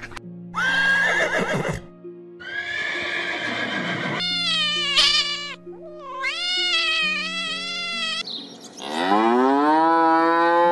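A horse neighing, then a cat meowing twice, then a cow giving one long moo that rises in pitch near the end. Gentle background music with steady low notes plays under the calls.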